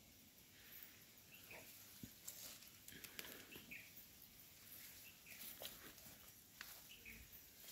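Quiet forest ambience: faint short bird chirps every second or two, with scattered soft clicks.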